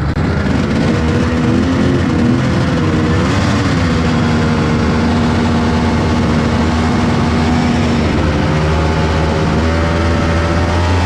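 1997 Polaris XCR 600's three-cylinder two-stroke engine running through its factory triple pipes, its pitch shifting briefly about three seconds in, holding steady for several seconds, then rising gently near the end.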